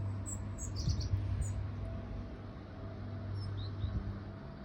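Small songbirds giving short, high chirping calls: a quick series of thin notes in the first second or so, then two brief lower notes later, over a steady low background hum.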